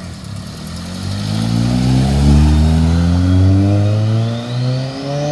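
Ford Escort RS Cosworth's turbocharged four-cylinder pulling away under hard acceleration. The revs climb for about four seconds, dip briefly at a gear change, then climb again.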